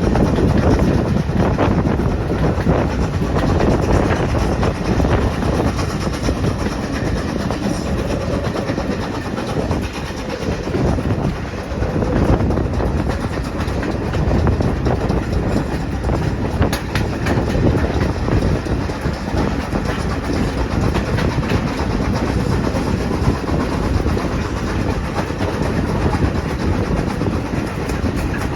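A train running along the track: a steady rumble with the clickety-clack of wheels over the rail joints.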